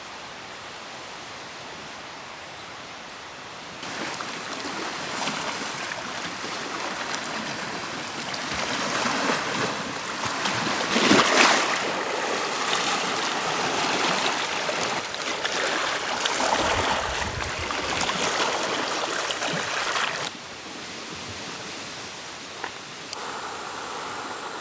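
Steady rush of moving water, which turns louder about four seconds in and drops back suddenly about four seconds before the end.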